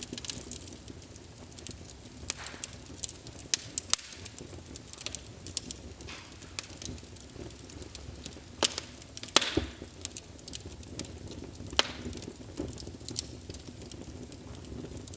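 Wood fire burning in a fireplace: a soft steady hiss and low rumble with irregular sharp crackles and pops, a few louder snaps standing out about nine and twelve seconds in.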